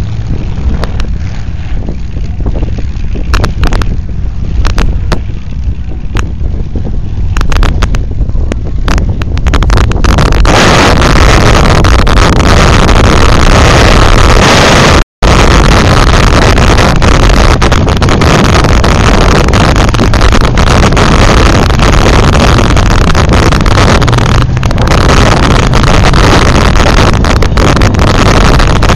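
Demolition derby cars' engines running and revving, smothered by wind buffeting the microphone, loud and distorted. About ten seconds in, the noise swells to a dense roar, and there is a brief dropout near the middle.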